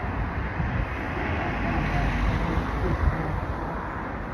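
Road traffic passing close by: a steady rush of tyre and engine noise that swells about two to three seconds in, with wind on the microphone.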